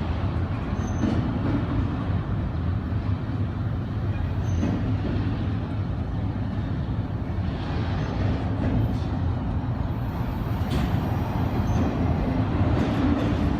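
Intermodal freight train rolling past with a steady, continuous rumble of wheels on rail and a few faint clicks.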